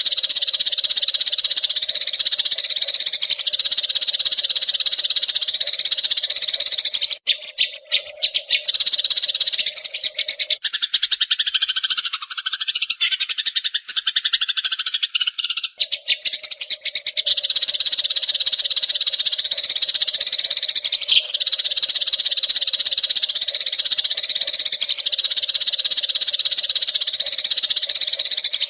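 Eurasian tree sparrows chattering in a fast, unbroken stream of high chirps. For a few seconds near the middle the chatter turns lower and wavering.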